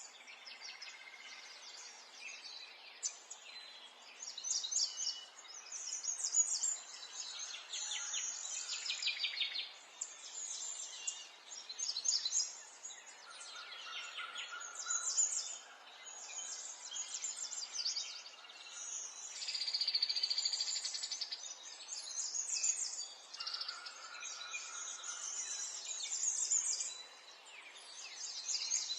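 Several small birds chirping and trilling, their songs overlapping, over a faint steady background hiss.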